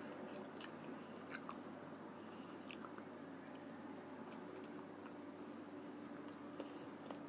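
A person chewing and gnawing fried chicken wings eaten by hand, with scattered small clicks of mouth and fingers.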